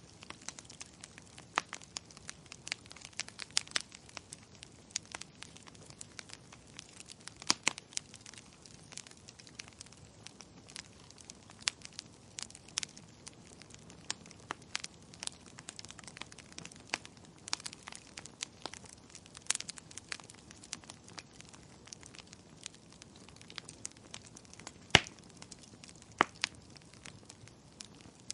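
Wood fire crackling in a fireplace: irregular sharp pops and snaps over a faint steady hiss, with the loudest pop near the end.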